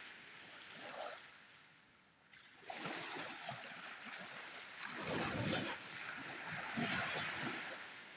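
Sea waves breaking and washing up the beach: the water noise swells about three seconds in, is loudest about five to seven seconds in, and fades near the end.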